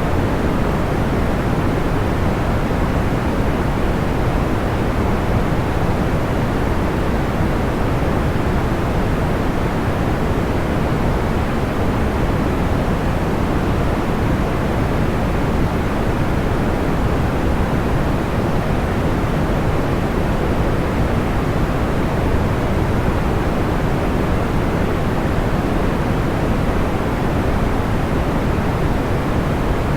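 Steady sleep-sound white noise with a deep, low-weighted hiss like pink or brown noise, even and unchanging throughout.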